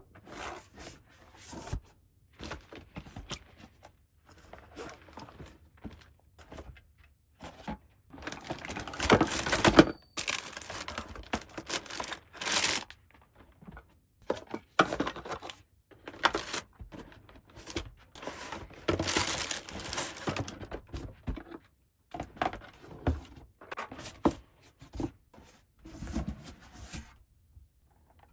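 Hands unboxing a toy play set: packaging crinkling and tearing in irregular bursts, with scattered taps and clicks of small plastic pieces.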